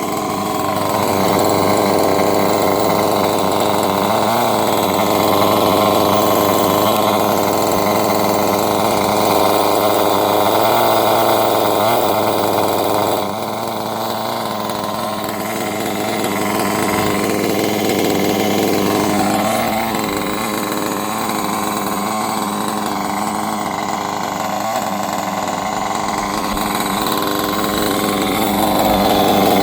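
Small nitro glow engine of a Kyosho 1/8 RC engine buggy running steadily, its pitch rising and falling a few times with the throttle. It gets quieter about 13 seconds in and louder again near the end.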